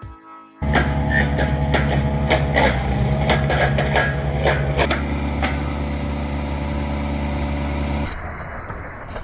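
Wood chipper's engine starting up sharply and running at full speed, with sharp cracks and snaps as branches are chewed through. About eight seconds in it drops to a quieter, duller engine sound.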